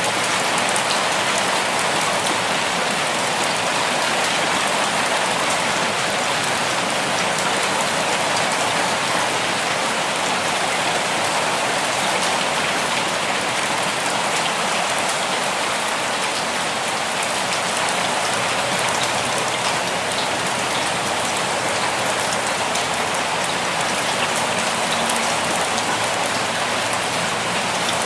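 Steady rainfall, many fine drops pattering on a surface in an even, unbroken wash.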